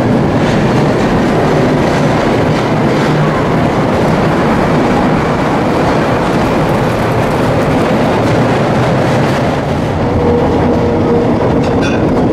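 Iron-mine tour train running on its rails: a steady rumble with the clatter of wheels over the track, heard from an open carriage as it travels through a rock tunnel.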